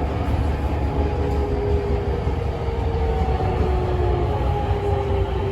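Interior running noise of a Tokyo Metro 10000 series train: a steady low rumble from the wheels and track, with a faint motor whine drifting down in pitch as it slows toward a station.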